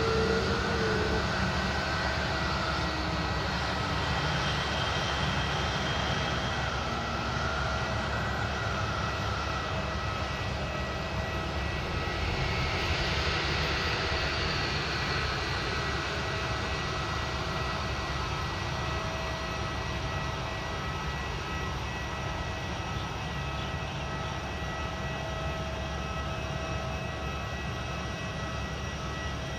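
Aircraft engines running steadily, a broad rush with a constant whine that swells briefly around the middle.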